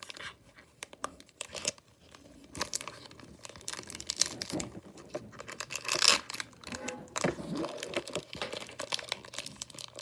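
Foil wrapper of a Pokémon Evolving Skies booster pack crinkling and being torn open by hand, a run of irregular crackles and rustles, loudest about six seconds in.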